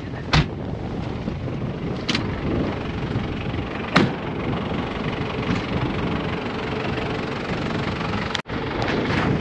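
Toyota Prado SUV's engine idling steadily, left running because its battery is low. A few sharp knocks sound over it, the loudest about four seconds in, and the sound drops out for an instant near the end.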